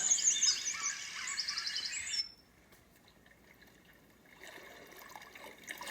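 ICETEK white noise machine playing its recorded birdsong track: rapid high chirps and trills that stop about two seconds in. After a short silence a faint, even rushing sound fades in, the start of its ocean-waves track.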